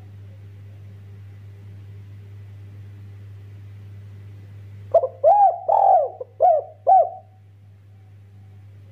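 Derkuku dove cooing one phrase of about five quick rising-and-falling coo notes, about five seconds in, over a steady low hum.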